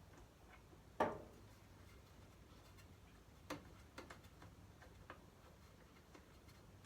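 Faint, scattered clicks and light metallic taps of hand tools and parts being handled on a small engine. The loudest comes about a second in, with a few smaller ones later.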